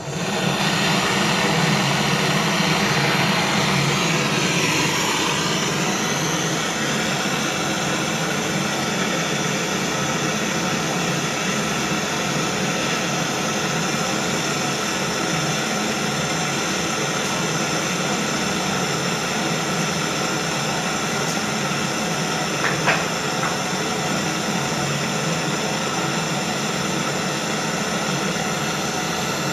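A machine switches on abruptly and runs steadily and loudly, with a continuous mechanical hum and hiss, and a single short click about 23 seconds in.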